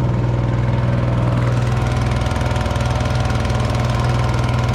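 Small boat engine running steadily at low speed, pushing a homemade steel flat-bottomed boat on its first test run.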